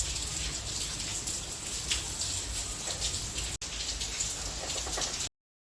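Steady rain falling, with many small drop ticks. The sound drops out for an instant a little past halfway and cuts off suddenly near the end.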